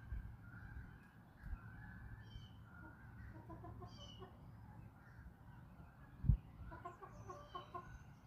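Backyard chickens clucking, with two runs of short, quick clucks about three and seven seconds in. A single low thump sounds just after six seconds.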